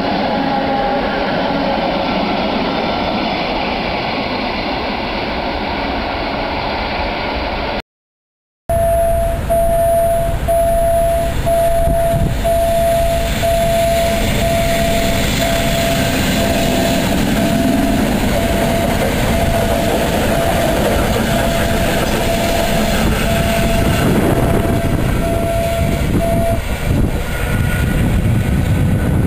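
Electric multiple-unit trains running by on the track: first one passing close, then, after the sound cuts out for under a second, another approaching and passing. During the second pass an even beeping tone repeats about once a second.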